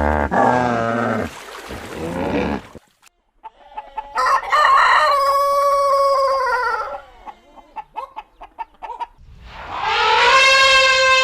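Rooster crowing once, a long call that holds its pitch and then falls away, followed by a run of short hen clucks. It comes between other animal calls: a wavering call that ends about a second in, and another long call that starts near the end.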